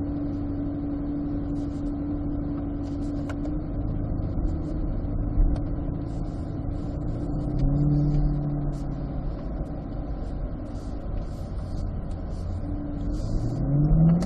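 C8 Corvette's V8 running as the car is driven, heard from inside the cabin: a steady low rumble whose engine note shifts in pitch a few times.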